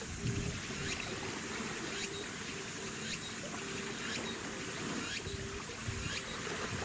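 A ship's engine running with steady water and wind noise as the vessel passes. A faint high-pitched pulse repeats about once a second.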